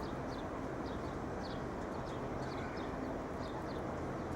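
Steady city background noise with a small bird chirping repeatedly: short, high chirps that slide downward, about two a second.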